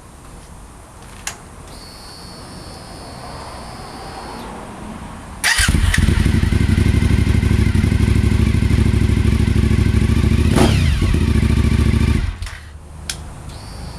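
Suzuki SV1000S 90-degree V-twin with an aftermarket Leo Vince exhaust starting about five seconds in and idling loudly. It gives one quick rev blip near the end, then is switched off.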